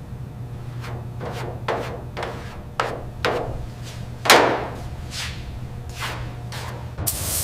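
A series of about ten uneven knocks or strikes, the loudest about four seconds in, over a steady low hum. A hiss starts near the end.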